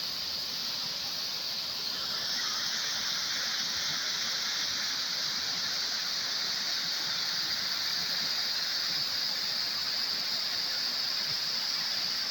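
A waterfall rushing: a steady hiss of falling water that gets louder and fuller about two seconds in.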